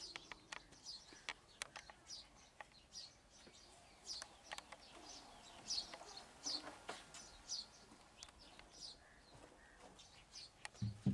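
Small birds chirping faintly: short, high, repeated calls about every half second to a second, with a few faint clicks.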